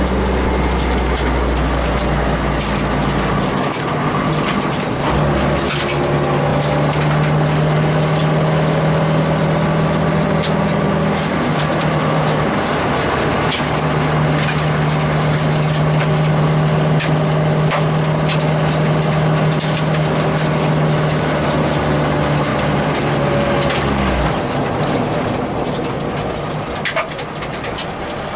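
Acura RSX rally car's four-cylinder engine running hard, heard from inside the cabin, with its pitch holding and shifting as it goes through the gears, while stones and gravel pelt the car as many sharp clicks. About four seconds before the end the engine note falls away as the car slows.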